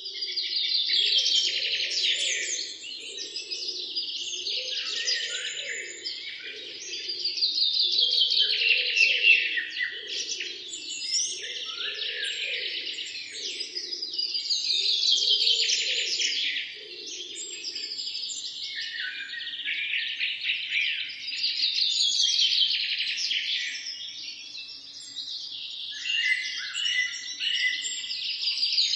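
Birds singing and chirping, a trilling song phrase coming back every six or seven seconds among shorter chirps. Beneath it a lower pulsing sound runs until about two-thirds of the way through, then stops.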